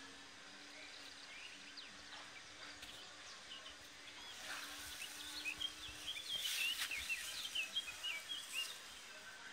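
Small birds chirping and twittering, a busy run of short high calls from about halfway in, over a faint steady hum.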